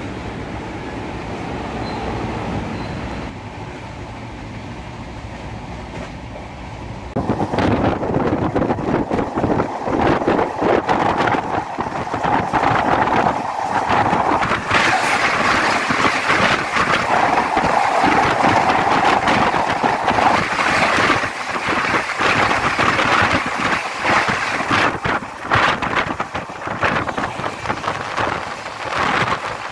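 Swaraj Express passenger train running at speed. A quieter steady coach rumble for the first several seconds gives way, about seven seconds in, to a much louder rush of track noise with many short knocks from the wheels on the rails.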